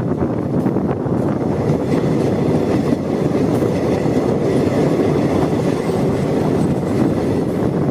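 Indian Railways train running along the track, a steady noise of wheels on rails.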